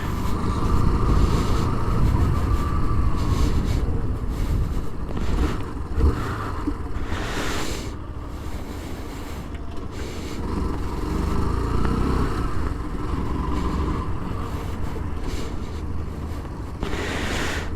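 Small motorcycle engine running as it is ridden, its note rising and easing a few times, with wind rushing over the helmet-mounted microphone.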